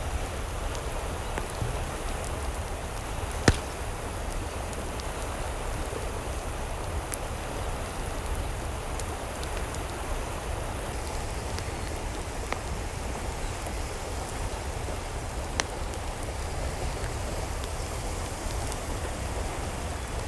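Steady, even wash of water noise, with a few sharp clicks, one about three and a half seconds in and another about fifteen seconds in.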